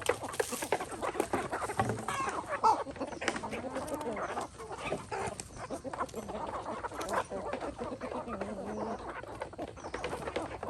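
A flock of chickens clucking, with many short sharp clicks and ticks scattered throughout.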